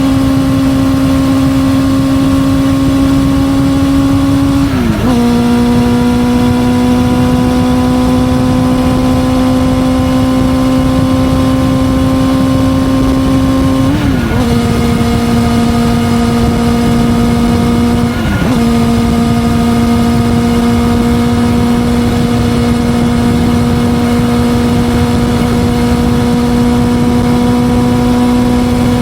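Honda CB400SF Hyper VTEC inline-four running through a Yoshimura titanium full exhaust system, held at a steady high engine speed with its pitch creeping slowly up. The note dips sharply three times, about 5, 14 and 18 seconds in, before settling again.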